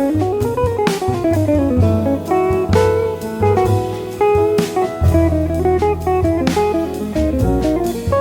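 Jazz band instrumental break: an electric or acoustic jazz guitar solo of quick single-note runs that climb and fall, over double bass and drums with cymbal strikes.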